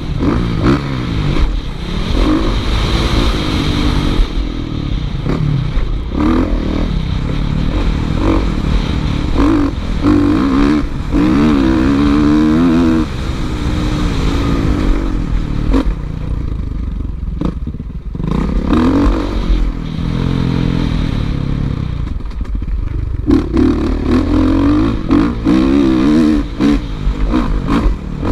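Motocross motorcycle engine revving hard and falling back over and over, its pitch climbing and dropping with the throttle, with short sudden cuts.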